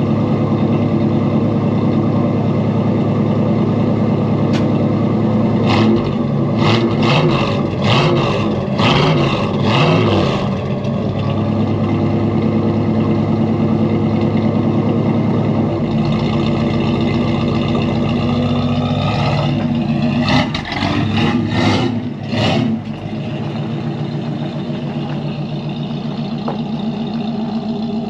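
Ford 460 big-block V8 in a 1984 F250 running while it warms up after a cold start. It is blipped several times in quick succession about a quarter of the way in and again past the two-thirds mark, then settles to a steady idle.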